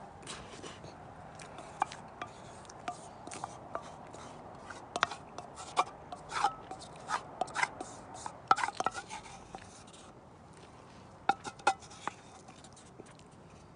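Irregular light clicks and taps of small objects being handled, a few with a short ring, bunching up in the middle and again shortly before the end.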